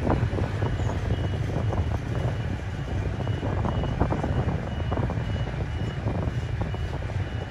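Container freight train passing close by: a steady low rumble of the wagons, with wheels clattering and knocking on the rails. A faint high beep repeats a little under twice a second.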